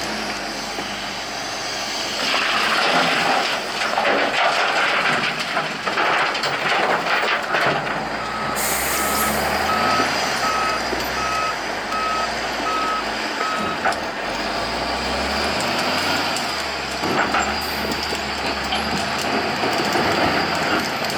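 Volvo L120F wheel loader's diesel engine working hard under load. Midway a reversing alarm beeps steadily for about six seconds as the loader backs away, and a short hiss of air is let off as the beeping starts.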